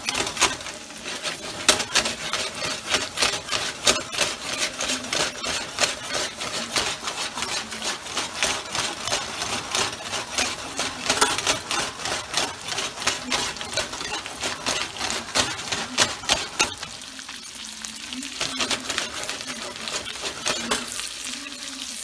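Salmon fillets and chopped herbs frying in oil in a frying pan: a steady sizzle with dense crackling pops. The crackling thins out for a few seconds near the end, then picks up again.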